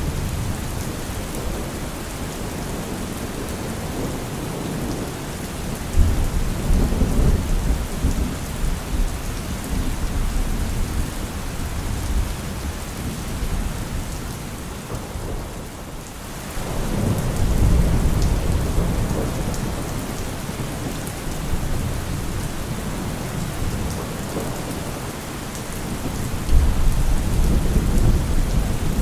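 Heavy rain falling steadily, with rolling thunder rumbling three times: about six seconds in, in the middle after a brief lull in the rain, and again near the end.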